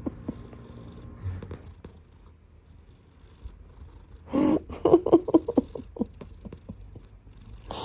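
British shorthair kitten purring steadily while being massaged. About four seconds in comes a short vocal sound, then a run of quick short pulses.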